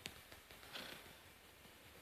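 Near silence: a steady faint hiss with a sharp click at the start, a fainter click shortly after, and a soft brief rustle just under a second in.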